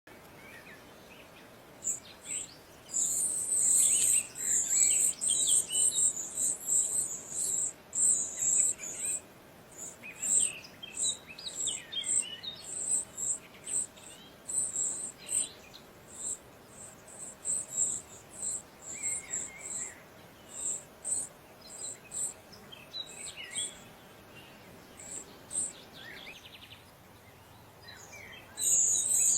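Parrot chirping and calling in runs of quick, very high-pitched chirps mixed with short sweeping calls. It quietens for a few seconds near the end, then starts again.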